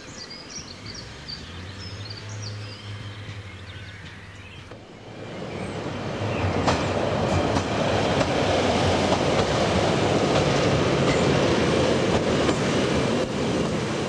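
Train noise: a low steady hum for the first few seconds, then about five seconds in a train's running noise builds over a couple of seconds. It stays loud and cuts off suddenly near the end.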